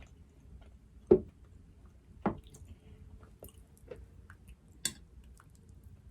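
Close-miked eating sounds: quiet wet chewing and mouth clicks, with three louder sharp wet sounds, the first about a second in and the loudest.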